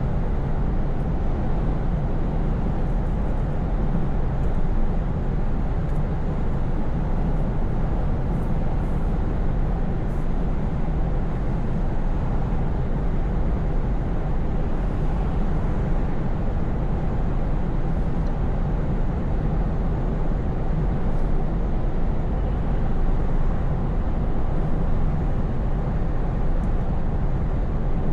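Scania S580 truck's V8 engine running steadily on the road: a low, even drone that holds without change.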